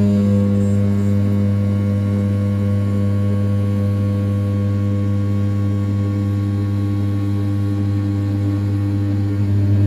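500 W brushless spindle on a desktop CNC router running at 6000 rpm while it rough-mills the outer profile of an A7075 aluminium block: a steady, even hum with a strong low tone and a row of higher overtones, getting a little louder near the end.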